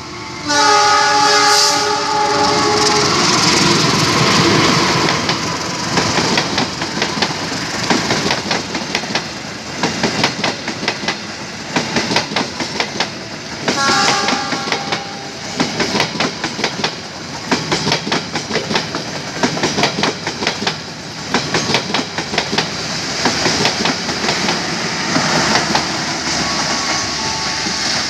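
Diesel-hauled passenger train passing at speed: the locomotive horn sounds a chord of several tones for about two seconds at the start and again briefly about halfway through. Between the horn blasts, the coaches' wheels clatter steadily over the rail joints.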